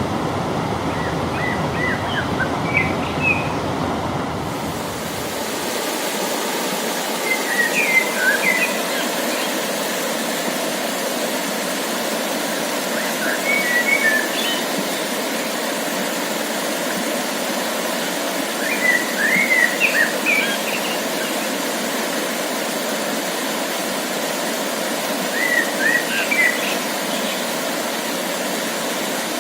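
A small songbird singing short chirping phrases, five of them about six seconds apart, over a steady rushing background noise that changes character about five seconds in.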